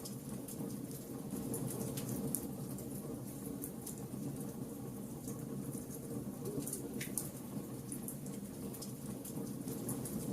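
Wood fire burning: a steady low rush of flames with frequent small crackles and pops from the burning wood, a couple of sharper pops standing out.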